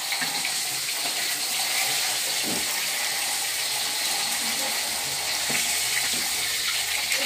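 Shallots, chillies and tomatoes frying in oil in a wok, a steady sizzle, with a couple of light knocks from stirring about two and a half and five and a half seconds in.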